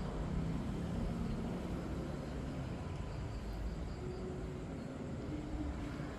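Steady low rumble of vehicle noise, with no clear events in it.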